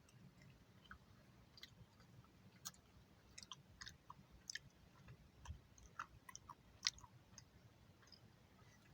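Near silence inside a parked car: faint low hum with scattered small, soft clicks and ticks.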